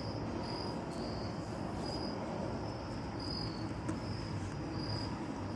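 Crickets chirping in a steady, even rhythm, about two chirps a second, over a low steady background noise.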